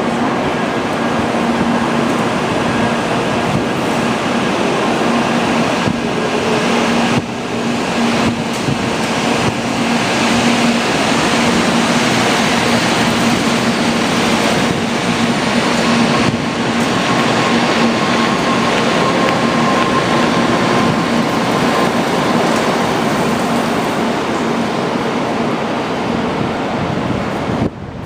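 Steady loud rumble of a Shinkansen train at a station platform, with a constant low hum running through it.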